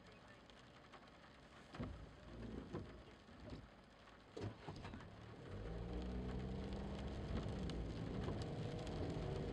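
Rain and wet-road noise with a few knocks, then from about five and a half seconds in a car engine running steadily and pulling away, its pitch rising slowly as it accelerates.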